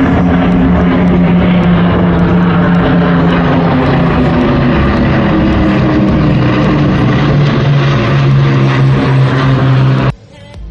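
Propeller aircraft engine droning loud and steady in flight, its pitch dropping slightly partway through. The sound cuts off suddenly near the end.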